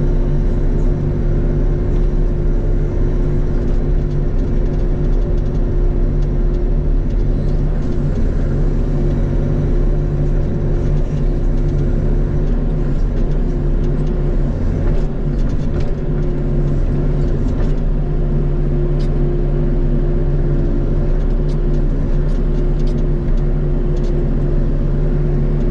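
Bobcat E42 mini excavator's diesel engine running steadily under load while digging out a stump. Scattered light knocks and clicks come in the second half.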